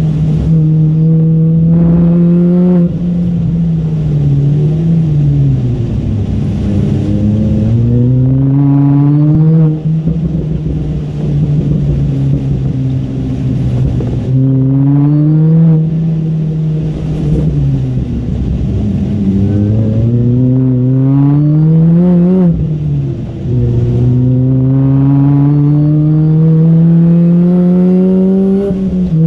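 2006 MINI Cooper S supercharged four-cylinder engine, heard from inside the cabin, revving hard on track. The pitch climbs under throttle and drops sharply at each upshift, and winds down in between when lifting for corners.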